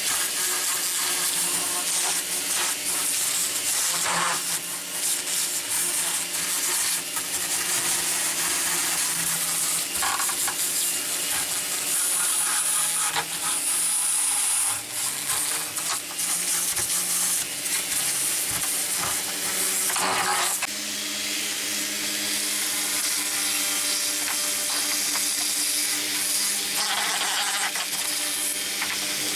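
A small power tool running with a steady, scratchy hiss, like abrasive or wire-brush work on metal. Its motor pitch dips and recovers about halfway through.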